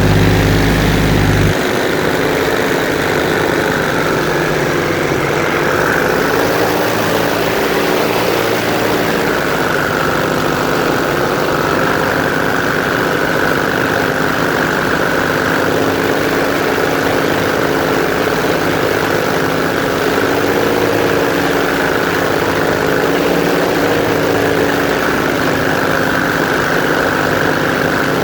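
Airboat's engine and big air propeller running steadily under way, heard from on board. A deep low hum drops away about a second and a half in.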